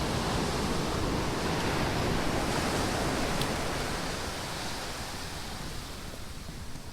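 Ocean surf washing up a sandy beach: a steady rush that eases off over the last couple of seconds.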